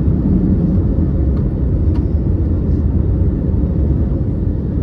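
Steady low rumble of an Airbus A321neo's engines and airflow, heard from inside the passenger cabin.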